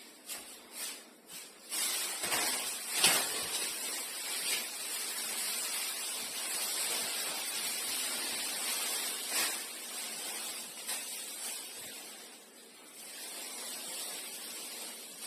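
Steady hiss of pressurised gas escaping, after a few clicks at the start, with a sharp click about three seconds in; the hiss dips about twelve seconds in and then comes back.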